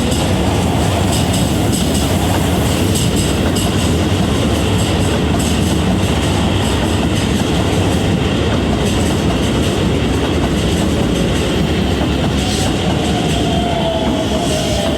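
Electric train passing over a level crossing at close range: a loud, steady rumble with the wheels clicking over rail joints. A falling whine comes in near the end.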